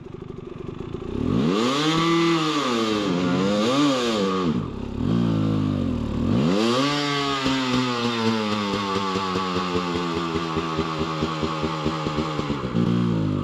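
Dirt bike engine revving hard in bursts as the rider struggles up a steep hill climb, pitch rising and falling a few times, then one big rev about halfway through that slowly sinks as the engine bogs under load.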